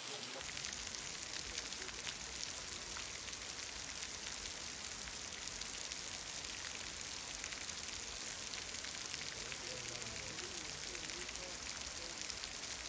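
Heavy rain falling steadily: an even hiss full of small drop taps.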